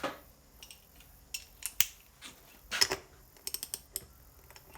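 Small metal clicks and knocks of a hand tool working the bolts of a small trolley wheel's split rim, with a louder clatter nearly three seconds in and a quick run of clicks about half a second later.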